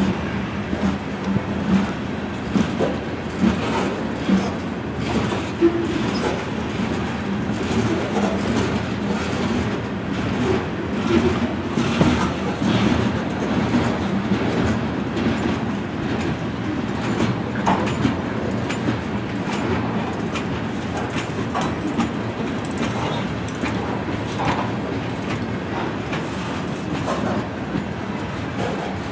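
Freight train of covered hopper cars rolling past at close range: a steady rumble with the wheels clicking and clacking over the rail joints.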